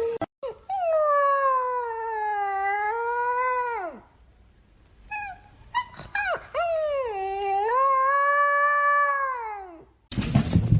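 A dog howling: two long howls of about three seconds each, their pitch sagging in the middle and dropping away at the end. A few short yelps lead into the second howl.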